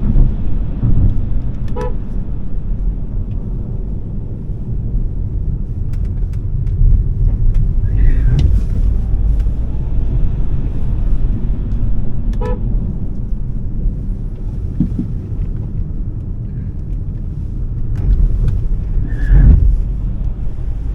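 Smart #3 electric car driven hard: a steady low rumble of road and wind noise with no engine note. It is broken by two brief high tyre squeals and two short identical beeps, each pair about ten seconds apart.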